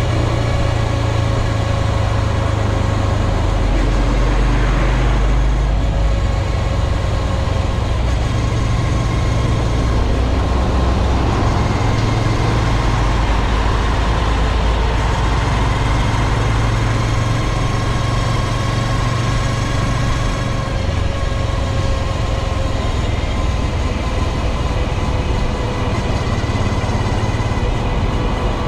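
2022 Honda Grom's single-cylinder engine running steadily, with the persistent drivetrain noise that the owner says the dealer's replacement O-ring drive chain did not cure.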